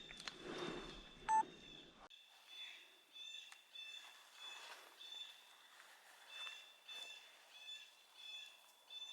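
Blue jays alarm calling over and over, a mix of pitched calls and harsher cries, stirred up by hawks nearby. A short electronic beep, the loudest sound, comes about a second and a half in, and a low handling rumble stops suddenly at about two seconds.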